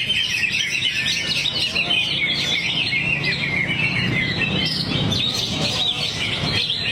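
Cucak hijau (greater green leafbird) singing a rapid, unbroken stream of chirps and trills, pouring out its learned song material in a trance-like singing state.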